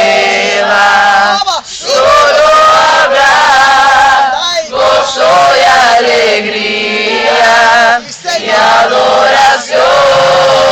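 A group of young people singing a worship song together loudly, holding long notes with short breaks between phrases.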